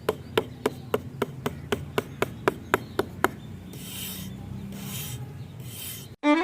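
Light, evenly spaced taps, about four a second, stopping about three seconds in, then three slow rasping strokes on small pieces of wood.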